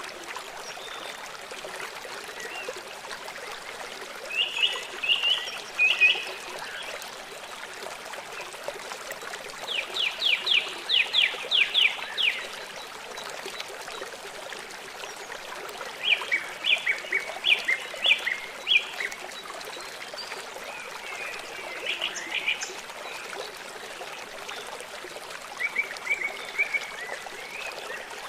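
Small songbirds singing in short phrases of rapid, repeated high notes, about five phrases in all, over a steady hiss of running water.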